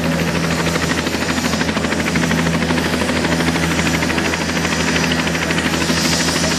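Helicopter running on the ground with its rotors turning: a loud, steady rapid beat of the blades over the turbine.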